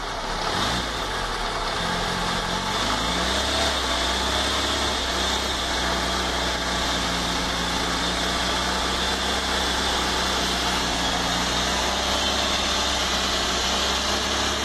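Fiat Panda 4x4 Sisley's FIRE four-cylinder petrol engine running just after being started following years of standing. Its revs are uneven for the first few seconds, then it settles into a steady idle.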